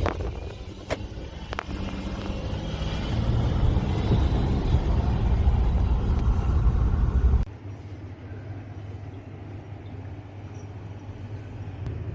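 Car and road noise with a few sharp clicks in the first two seconds; about seven seconds in the noise drops abruptly to a quieter, steady low hum.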